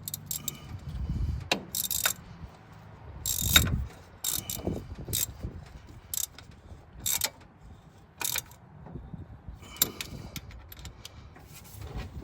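Hand tools clicking and clanking on metal in irregular spells, including ratchet clicks, while exhaust manifold bolts are fitted and tightened.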